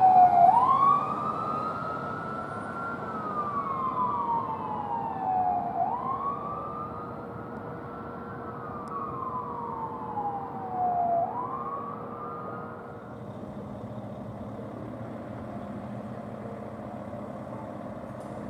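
Emergency vehicle siren on wail: three slow rise-and-fall cycles about five seconds apart, growing fainter and dying out about two-thirds of the way through, leaving steady road noise.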